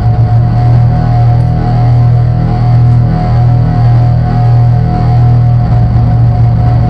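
Loud drone synthesizer music: a sustained low drone with a steady higher tone above it and a grainy, noisy texture in between, holding without a break.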